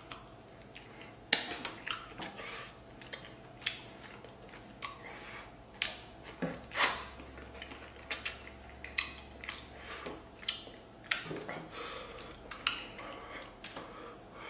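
Eating sounds: utensils clicking and clinking against a bowl, with chewing, in a string of short, sharp, irregular clicks.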